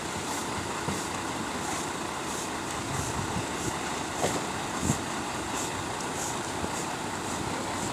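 An engine runs steadily. A few light knocks come about four and five seconds in.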